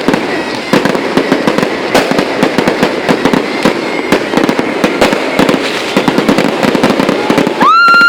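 Fireworks going off densely: a continuous run of rapid, overlapping bangs and crackles from many shells at once. Near the end a loud, short, high whistling tone sounds for under a second.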